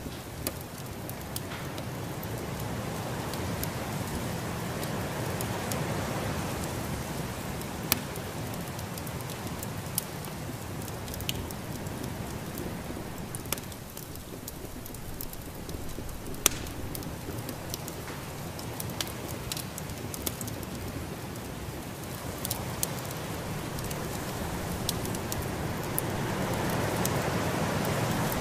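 Storm ambience of wind-driven noise that swells and eases, with the sharp pops and crackles of a wood fire scattered through it.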